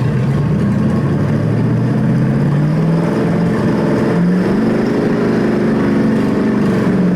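Chevrolet 283 small-block V8 running on its first start-up. Its revs climb slowly over the first couple of seconds, step up again about four seconds in, then hold steady at a faster speed.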